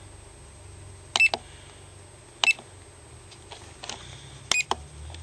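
Radio-control transmitter (Walkera 2801 Pro) giving short electronic key beeps as its menu buttons are pressed: a few separate beeps, some in quick pairs, with fainter button clicks between.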